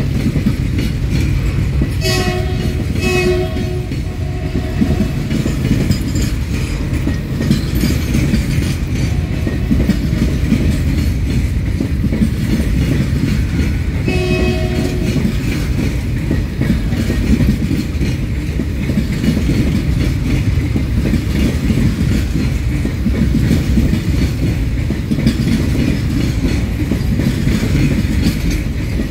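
Freight train of covered goods wagons rolling past close by, a steady heavy rumble of wheels on the rails. A train horn sounds in short blasts about two seconds in and once more about fourteen seconds in.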